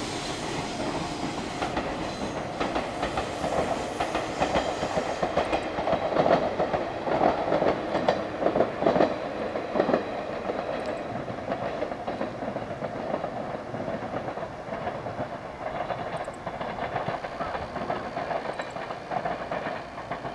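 JR 115-series electric train running along the line. Its wheels clatter in a steady rhythm over the rail joints, loudest about six to ten seconds in, then easing off.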